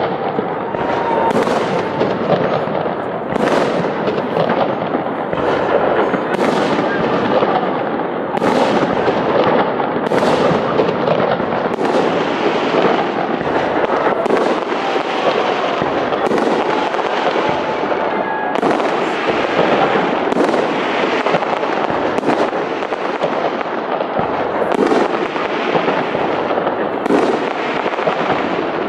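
Large fireworks display: a continuous dense crackle and rumble, with sharp bursts every second or two.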